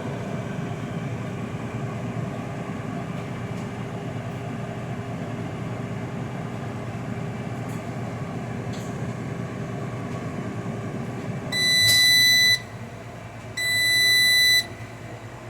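Air fryer fan running steadily through its cool-down cycle, then stopping about three quarters of the way through. Two long electronic beeps follow, each about a second, a sign that the cycle is done.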